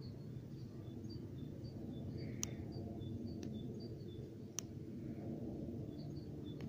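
A small bird repeating short, high chirps about twice a second, alternating between two pitches, over a steady low background rumble. Two sharp clicks come about two and a half and four and a half seconds in.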